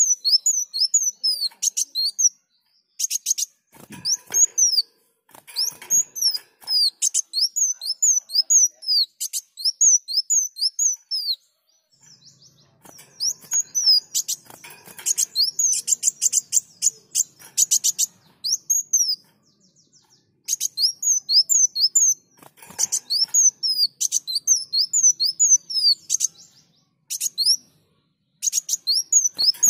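Kolibri wulung sunbird singing vigorously: rapid runs of high, thin sweeping notes and dense buzzy trills, in bursts of a few seconds separated by brief pauses.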